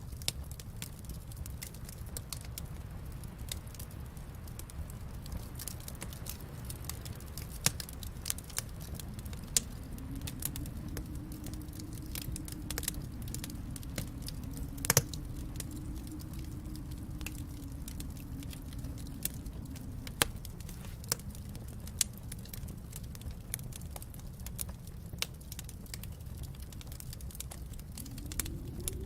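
Wood fire crackling, with irregular small pops and one louder pop about halfway, over a low steady rumble. A soft hum swells and fades through the middle.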